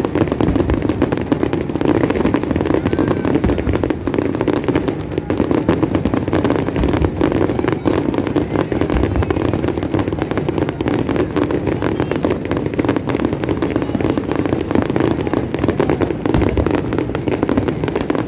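Large aerial fireworks display: a dense, continuous barrage of shell bursts and crackling, loud and without a pause.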